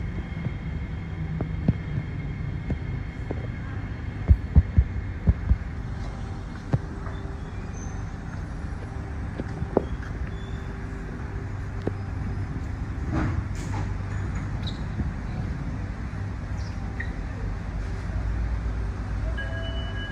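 Steady low hum of a standing Alstom Movia R151 metro train at a station platform. About four seconds in there is a quick run of five sharp thumps, and there are a few single clicks later.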